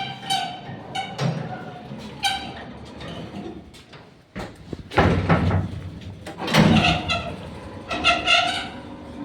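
Old Soviet-built passenger elevator with repeated short, high-pitched squeaks, and two heavy clunks near the middle from its doors and cab.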